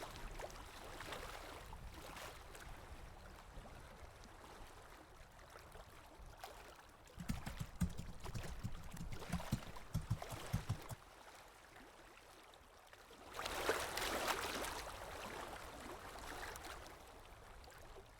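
Faint water sounds: low gurgling and lapping, with a run of irregular low rumbling thumps in the middle and a short louder rush of water about three-quarters of the way through.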